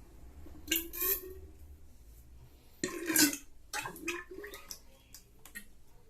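Oil gurgling and splashing as it drains out into a container, in three short spells: about a second in, around three seconds, and again near four seconds.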